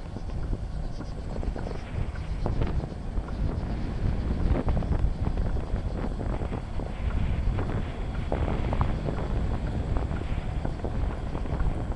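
Bicycle riding along a trail, heard from a handlebar-mounted camera: a continuous low rumble of the tyres with frequent small rattles and clicks from the bike, and wind on the microphone.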